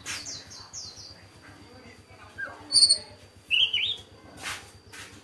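Small songbirds chirping: a quick run of falling chirps at the start, then a few sharp high chirps and a short warbled phrase about three to four seconds in, with a brief rustle just after.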